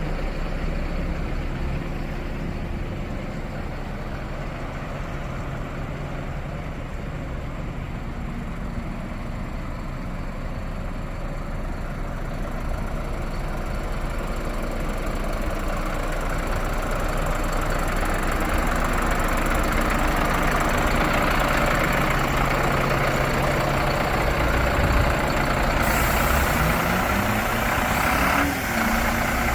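Iveco Stralis 330 garbage truck's diesel engine running steadily with a low hum. From about halfway a higher whirring noise grows louder, and a short rising tone comes near the end.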